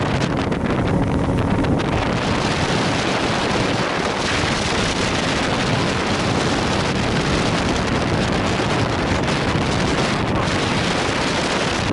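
Steady, loud wind noise on the microphone aboard a boat at sea.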